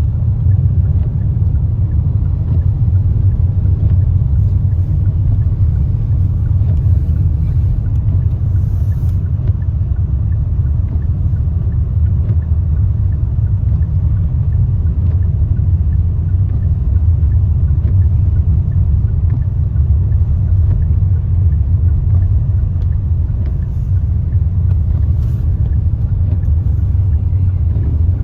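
Steady low rumble of a car driving, its road, tyre and engine noise heard from inside the cabin.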